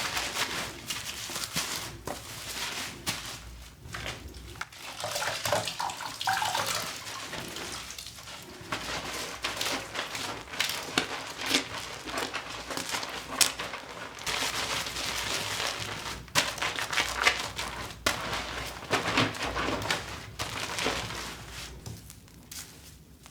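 Tap water running and splashing as a doll's hair is rinsed by hand. It makes an uneven hiss broken by small clicks and knocks.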